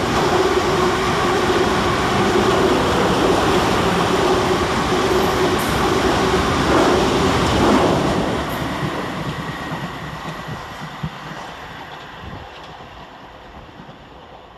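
Two coupled Class 444 Desiro electric multiple units passing through at speed: a loud, dense rush of wheels on rail with a steady hum, fading away over the last six seconds or so as the train recedes.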